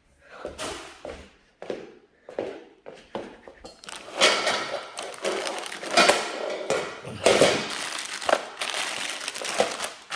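Flat-pack desk packaging being handled: crinkling and crunching of wrapping material with irregular scrapes and knocks, sparse at first and busier and louder from about four seconds in.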